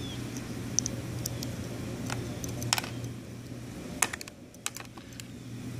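Light, irregular clicks and taps of small parts and tools being handled during a potentiometer swap on the blower's circuit board, over a steady low hum.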